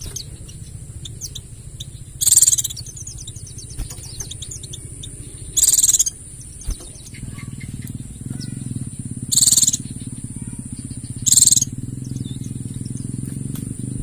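White-eye (pleci) twittering in quick, light chips, broken by four loud, short high-pitched song bursts a few seconds apart. Behind it runs a steady high insect-like whine, and a low hum grows louder about halfway through.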